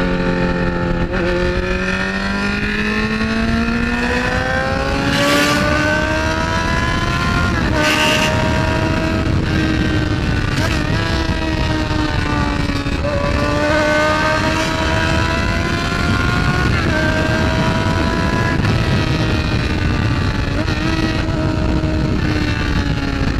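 Motorcycle engine heard from the rider's seat, its note climbing as it accelerates and dropping back at several gear changes, over a steady rush of wind.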